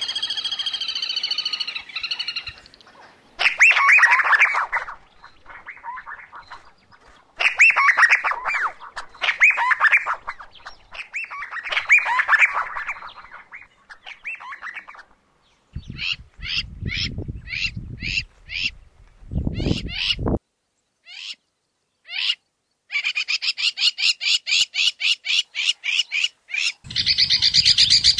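Wild birds calling in separate bouts: chattering, warbling phrases first, then a run of short downward-sliding notes about two a second, then a fast, even series of repeated notes near the end.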